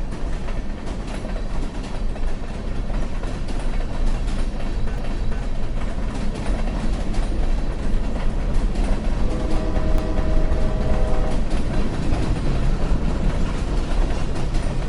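Train running along the track with a steady, continuous rumble of wheels and rails. A held tone of several pitches together sounds for about two seconds around the middle.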